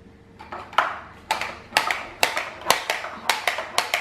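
A baby banging a toy repeatedly: sharp knocks with a short ring, about two a second, coming closer together near the end.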